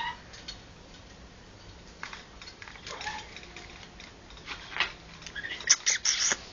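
Pet parrots making scattered beak clicks and short squeaky chirps, with a louder cluster of chirps and clicks near the end.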